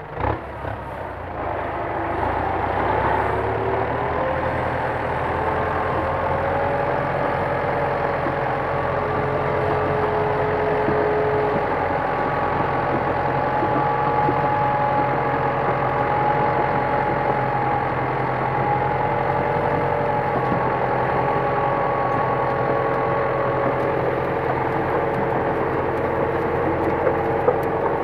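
Kubota M9540 tractor's diesel engine running steadily, building up over the first couple of seconds, with a whine held above the engine note.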